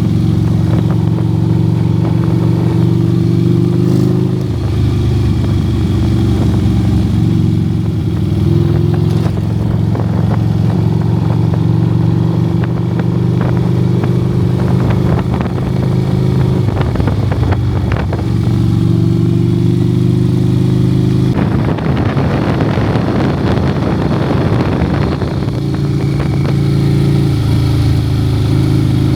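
Motorcycle engine running steadily while riding at cruising speed, with a slight change in engine pitch about four seconds in. A few seconds of rushing noise come in about two-thirds of the way through.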